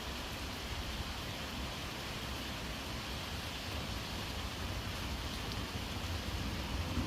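Steady rain falling, an even hiss with a few faint drops ticking.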